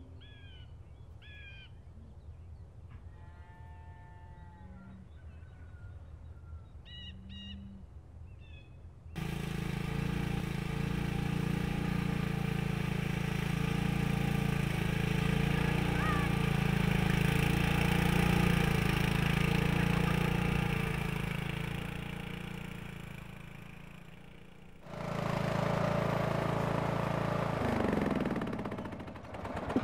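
A few short bird chirps over quiet background, then about nine seconds in an abrupt change to a much louder steady noise with a low hum, which fades and returns briefly near the end.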